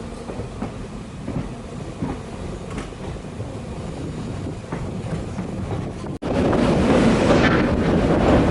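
Passenger train running, its wheels clattering over the rails, heard from on board. About six seconds in the sound cuts and comes back much louder as a rushing noise, like wind blowing onto the microphone.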